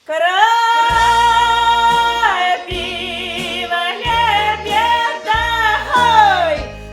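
A woman singing in a drawn-out folk style, holding long notes with a wavering pitch and sliding down near the end, over a backing track with a low, pulsing bass. The song starts abruptly.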